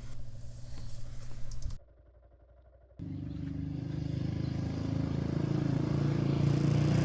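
Dual-sport motorcycle engine running. It breaks off for about a second, a couple of seconds in, then comes back and slowly gets louder.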